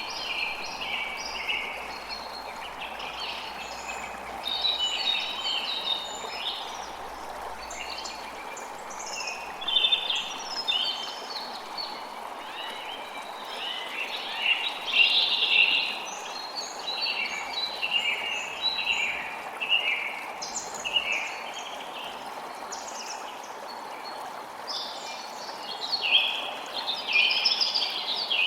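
A creek running steadily, with small birds chirping and singing in many short bursts throughout.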